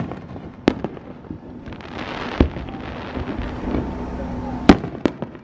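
Aerial fireworks shells bursting: a sharp bang under a second in, a hissing crackle with a dull thump around the middle, and two more sharp bangs close together near the end, over a low rumble.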